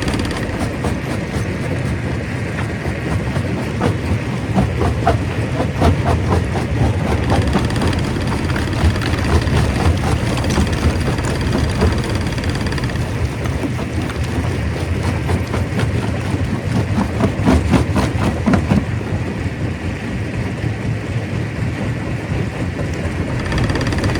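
Stone crusher running with a steady heavy rumble and irregular clattering knocks of rock being broken. The knocking grows busier about five seconds in and again near seventeen seconds.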